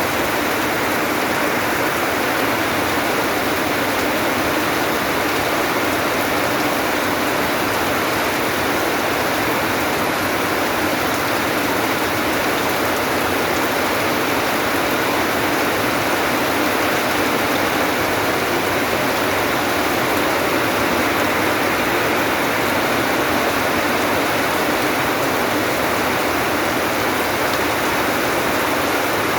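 Steady, even rain with no let-up.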